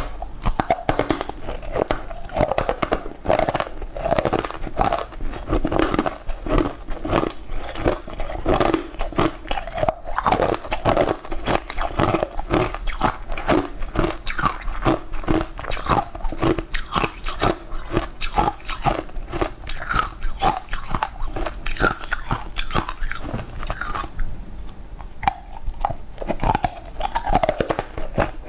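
Close-miked crunchy biting and chewing of green powder-coated pieces of food: a dense, steady run of crisp crunches.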